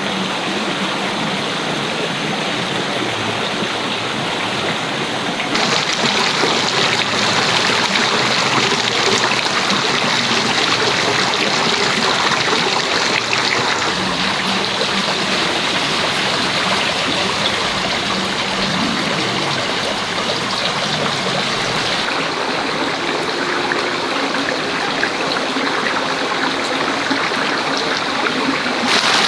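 Steady rushing, water-like noise, such as running or bubbling water. It gets a little louder and brighter about five seconds in and shifts again twice later.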